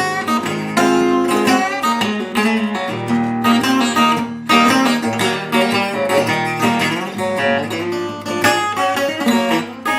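Instrumental break in a blues-rockabilly song: guitar played with many quick picked notes over strummed chords, no singing.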